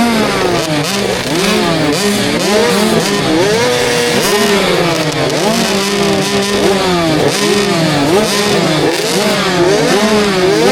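KTM 65 SX two-stroke motocross engine revving hard, its pitch climbing under throttle and dropping again over and over as the rider shifts and rolls off, heard from the rider's helmet.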